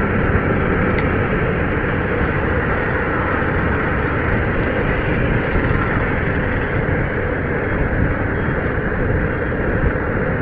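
Steady wind and road noise from a motorcycle cruising at an even speed, with the engine running underneath.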